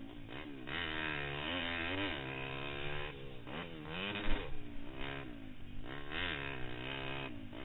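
Pitster Pro LXR160 pit bike's single-cylinder four-stroke engine under race throttle, its pitch repeatedly rising and falling as the throttle is opened and closed. There is a sharp knock a little past halfway.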